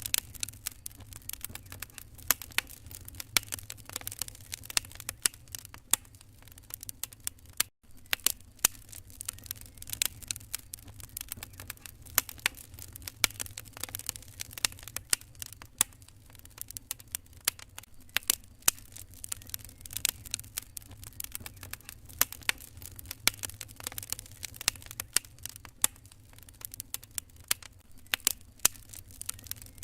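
Wood fire crackling, with frequent irregular sharp pops over a low steady rumble. The sound cuts out for an instant about eight seconds in.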